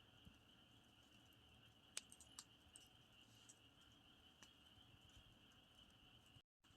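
Campfire crackling softly, with a few sharp pops, the loudest about two seconds in, over a steady high-pitched chirring of crickets. The audio cuts out for a split second near the end.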